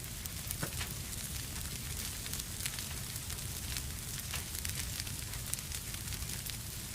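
Fire in a fireplace crackling, with frequent irregular sharp pops over a steady hiss and a low rumble.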